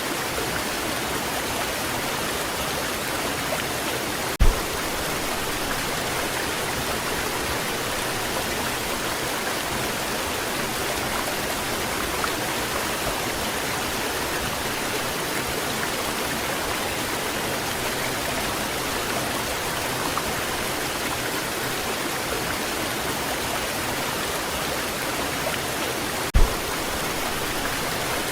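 Waterfall: a steady, even rush of falling water, broken by two brief low thumps, one about four seconds in and one near the end.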